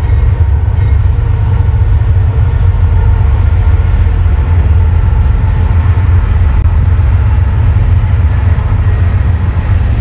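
A long train rolling past: a loud, steady low rumble that does not let up.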